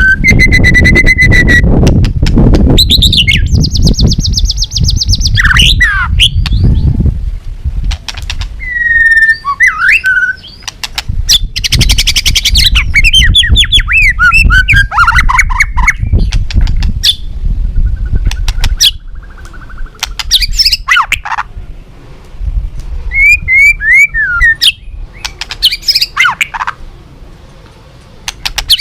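White-rumped shama singing a varied, loud song of sliding whistles, rapid trills, harsh rasping notes and clicks, phrase after phrase. A low rumble of background noise lies under much of the first two-thirds.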